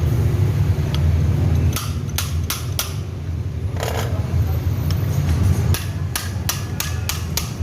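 Sharp knocks in two quick runs, about three a second, over a steady low hum, with a short scraping noise between them.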